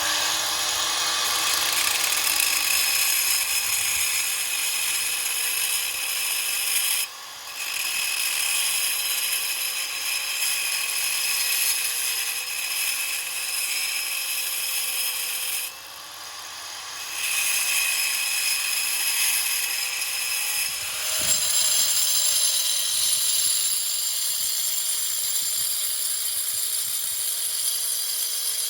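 Electric grinder cutting and grinding into a rock, a steady whine that wavers in pitch as the disc bites into the stone under a harsh, gritty hiss. The grinding sound drops off briefly twice as the tool eases off the stone.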